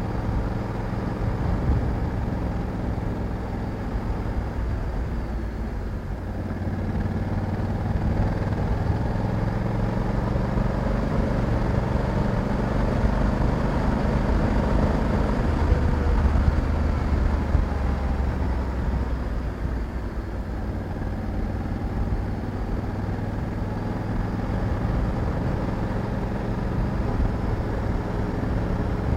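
Honda Africa Twin 1100 parallel-twin engine running under way on the road. The note rises a little around the middle and eases off again.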